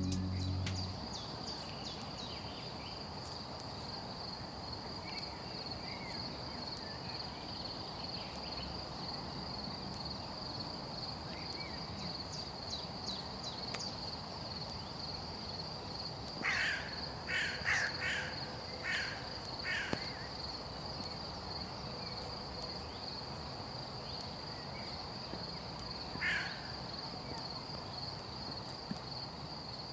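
Steady high insect trill, like a cricket, with short sharp bird calls: a quick run of about six around the middle and one more near the end.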